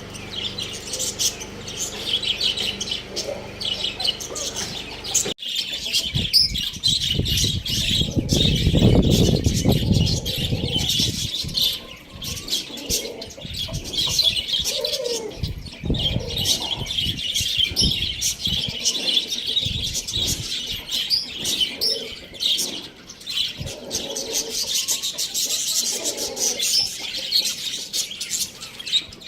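A flock of small cage birds chirping continuously in dense high twittering. About five seconds in the sound changes abruptly. A low rustling rumble follows for a few seconds, and short lower calls are scattered through the rest.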